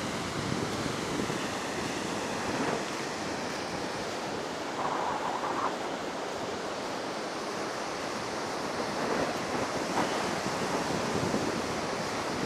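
Heavy surf washing onto a sandy beach in a steady roar of breaking waves, high after a typhoon, with wind blowing across the microphone.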